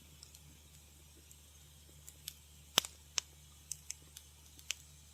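Wood fire crackling in a fireplace: scattered sharp pops and snaps over a faint low hum. The first two seconds are nearly still, then a run of about eight pops follows, the loudest a little before the middle.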